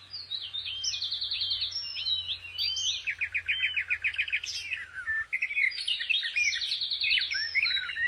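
Songbird singing: a continuous run of quick chirps, rapid trills and short whistled phrases, cutting off abruptly at the end.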